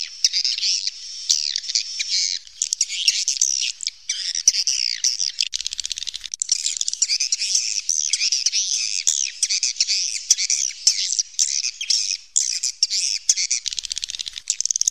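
A flock of swiftlets twittering continuously, many high-pitched chirps and trills overlapping without a break.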